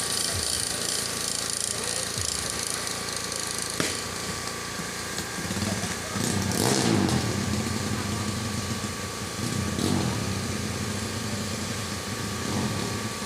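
Motorcycle engines running, growing louder from about halfway through, with the loudest moment a little past the middle.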